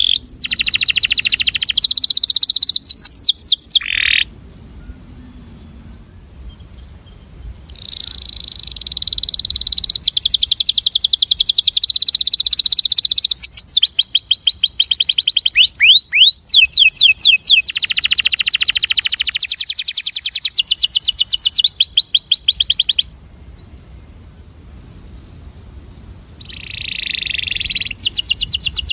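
Male canary singing: long phrases of fast trills of rapidly repeated high notes, broken by two pauses of a few seconds.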